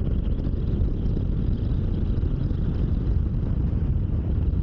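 Motorcycle cruising at highway speed, about 100 km/h: a steady low rush of wind and engine and road noise.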